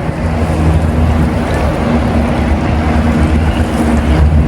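A boat's engine running at a steady pitch, with water and wind rushing over it.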